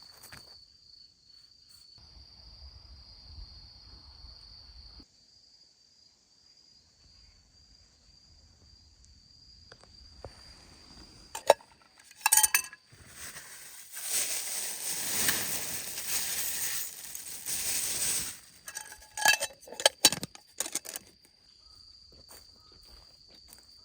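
Crickets trilling steadily on one high note. Midway they are broken by a few sharp clinks and knocks, then a hiss lasting about four seconds, then another cluster of clinks.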